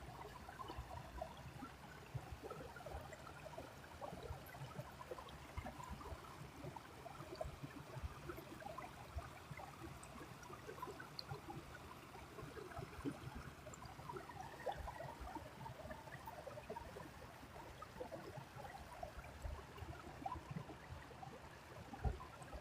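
Small creek running and babbling faintly, a steady fine crackle of water, with a few soft low thumps.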